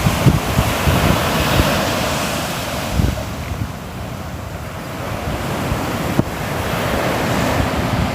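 Sea waves breaking and washing on the shore, a steady surf that swells about a second in, eases off, and builds again from about six seconds.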